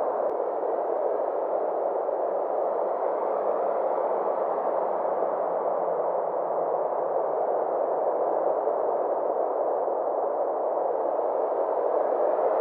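Synthesized ambient space drone: a steady, unbroken wash of sound centred in the middle range, its upper edge slowly sweeping up and down over several seconds.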